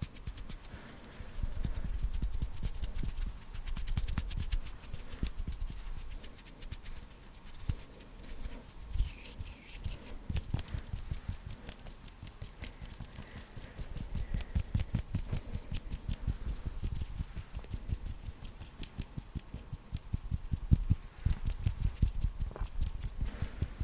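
Fast ASMR hand sounds close to the microphone: hands fluttering, rubbing and tapping in a dense, rapid run of soft pats and brushes that swells and eases in bursts.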